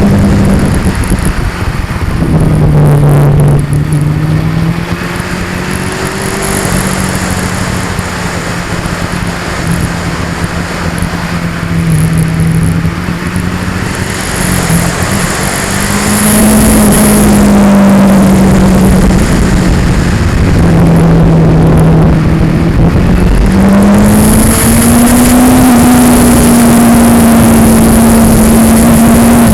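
2002 Yamaha R6's inline-four engine running loud under way, its note dropping about two seconds in, then rising and falling again with the throttle. A heavy rumbling noise from wind and from vibration of the mounted action camera lies over the engine.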